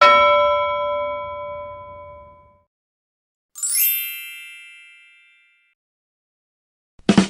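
Two bell-like ding sound effects: first a single struck ding that rings and fades over about two and a half seconds, then a bright, high twinkling chime that sweeps up and rings out over about two seconds. Another short sound starts right at the end.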